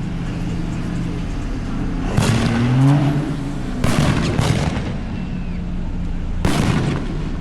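Steady low hum of a car in traffic, broken three times by short, loud rushes of noise, about two seconds in, about four seconds in and near the end.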